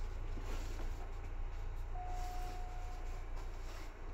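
Seibu 2000 series electric train running, heard inside the car above the line breaker: a steady low rumble of wheels and running gear, with a thin steady tone that sounds for about a second midway.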